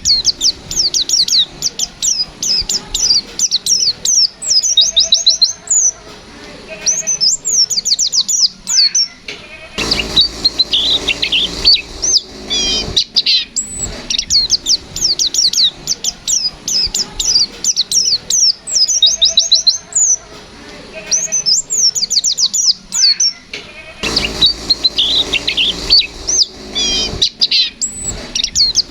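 White-eye (pleci) singing a fast run of high twittering chirps and short whistled sweeps, in long bursts broken by brief pauses. The same song phrase comes round again about halfway through, as in a looped recording.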